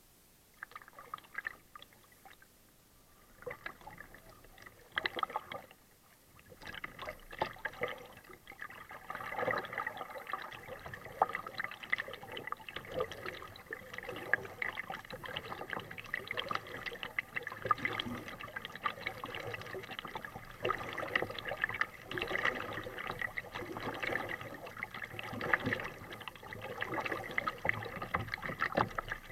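Kayak paddling on a lake: paddle blades splashing into the water and water trickling off them. It begins with a few scattered splashes, then settles into continuous splashing from about a quarter of the way in.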